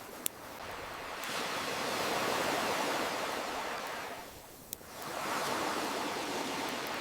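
Ocean waves surging in and drawing back, with two sharp campfire crackles, one just after the start and one about two-thirds of the way through.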